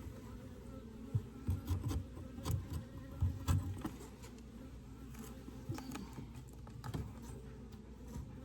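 Honeybees buzzing in a steady hum at an open hive, with a few scattered knocks and bumps, most of them between about one and four seconds in and a couple more near the end.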